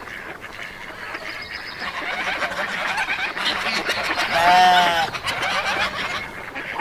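A sheep bleats once, loud and drawn out, about four seconds in. Behind it runs a busy background of many smaller animal calls.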